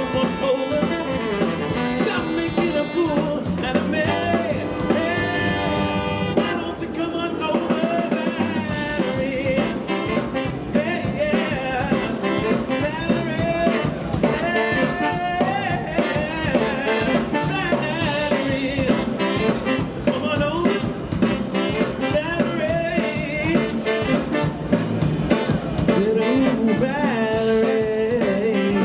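Brass band playing an upbeat instrumental passage, with trumpets, trombones and saxophone carrying the tune.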